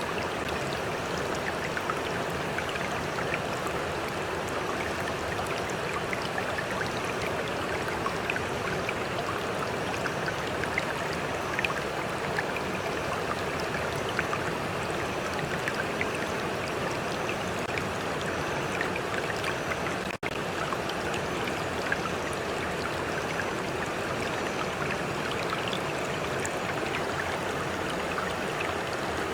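Stream flowing steadily, with close trickling water and small splashes over an even rush. The sound drops out for an instant about two-thirds of the way through.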